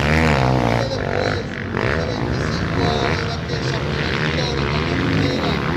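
Motocross motorcycle engines revving, their pitch rising and falling repeatedly, loudest at the start.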